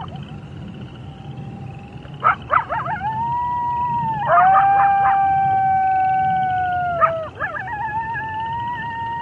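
Wolves howling in chorus: several long, held howls overlap, with short yips breaking in about two seconds in and again mid-way.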